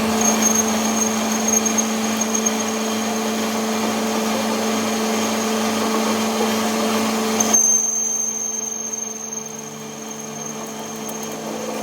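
An electric workshop machine running steadily with a constant hum and whir. About seven and a half seconds in, the sound drops off and carries on more quietly.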